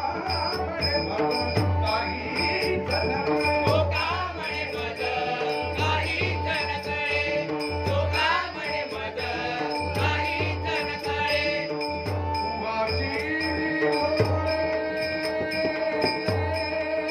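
Bhajan music played live: a held drone and melody over regular drum beats, with small cymbals clinking in a steady rhythm.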